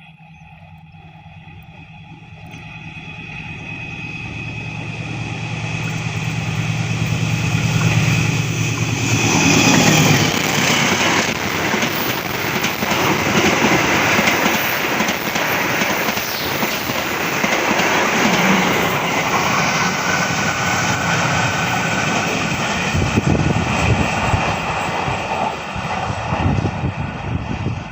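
Diesel locomotive-hauled train approaching and passing close by. The locomotive's engine drone grows louder over about eight seconds and drops in pitch as it goes past. After that comes a steady rush and clatter of the carriages' wheels on the rails.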